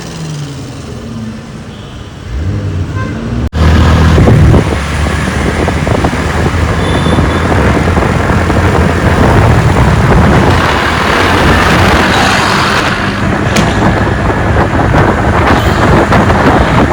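Lamborghini Urus twin-turbo V8 running through a Novitec aftermarket exhaust. It is quieter for the first few seconds, then after an abrupt cut it is much louder and sustained, heavy in the low end.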